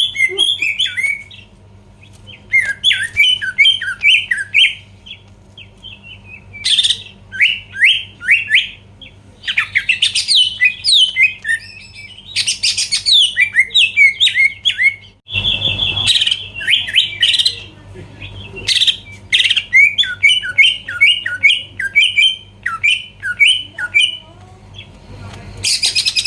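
Cucak ijo (green leafbird) singing in full voice: fast runs of sharp, downslurred whistled notes, broken every few seconds by short harsh, raspy bursts. A steady low hum runs underneath.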